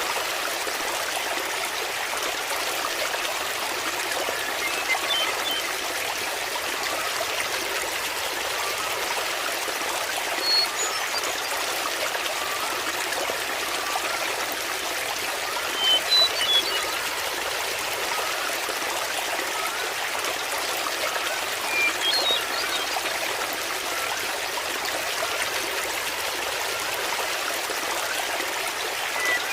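Waterfall, water running and trickling steadily, with a few brief high-pitched sounds every five or six seconds.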